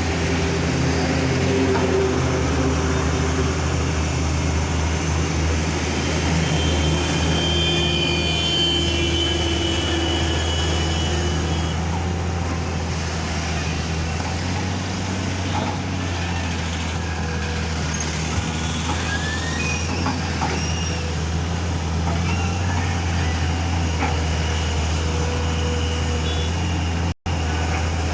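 Heavy diesel engines of a JCB backhoe loader and a lorry running steadily at a low drone during loading. The sound cuts out for a moment near the end.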